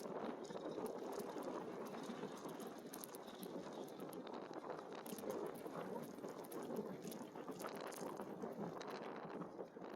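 E-bike riding along: a steady rumble of tyres rolling on the surface, with scattered light ticks and clicks from the bike and some wind on the microphone.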